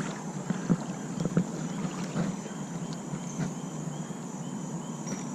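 Steady rushing of creek water with a few soft knocks as someone walks along the bank. Faint, evenly repeated high chirps of an insect come in over the second half.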